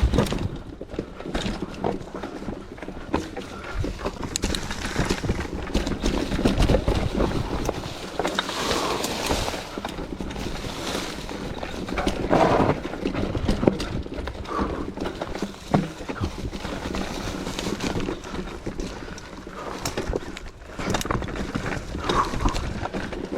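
Mountain bike ridden over rough trail: tyres rolling on dirt, with the bike clattering and rattling in many short knocks as it goes over bumps.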